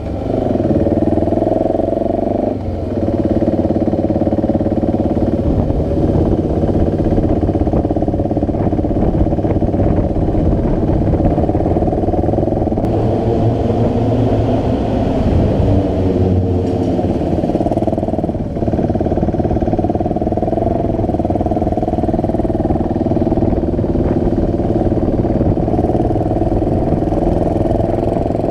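Motorcycle engine running steadily while riding along. Its note shifts briefly about two and a half seconds in and again around eighteen seconds, like gear changes.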